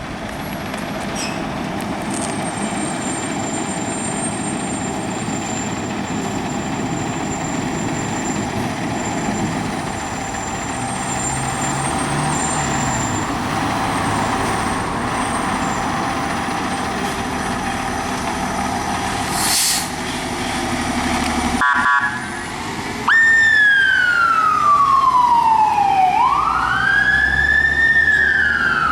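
Fire engine running steadily for about twenty seconds, then its siren comes on after a brief rapid pulsing and wails slowly, falling and rising about once every three seconds. The siren is the loudest part.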